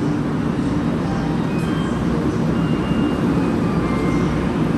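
Steady rumble and hum of a Shinkansen bullet train standing at the platform. A few faint high tones sound now and then.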